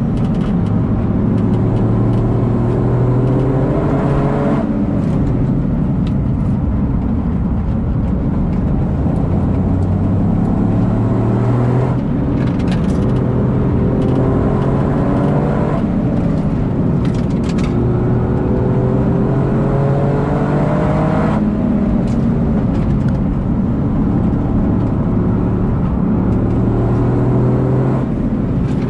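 Toyota GR Yaris's turbocharged three-cylinder engine heard from inside the cabin during a hot lap. Its note climbs under full acceleration and drops off about five times at gear changes and lifts for corners, over steady tyre and road noise.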